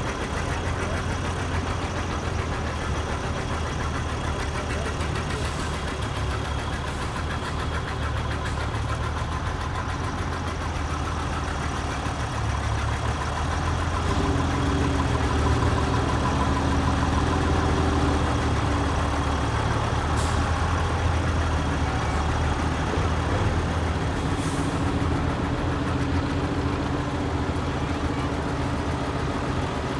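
Antique tractor engines running steadily, with a louder engine coming through about halfway in.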